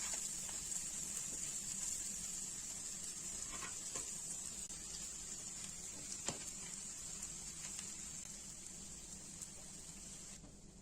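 Food frying in hot oil in a pan: a steady sizzle with scattered small pops and ticks, slowly getting quieter and cutting off just before the end.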